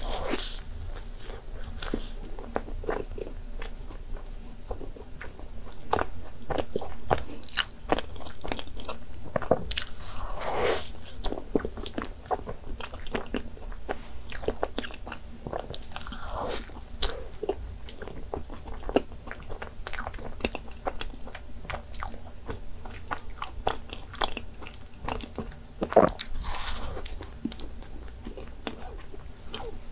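Close-miked eating sounds: biting into and chewing soft cream-filled donuts, with many small clicks of the mouth throughout.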